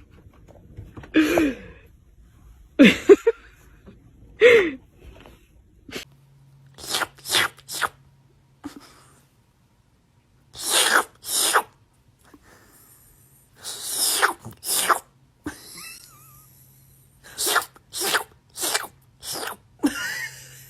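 A series of short, sharp sneezes, often in quick pairs or runs of three to five.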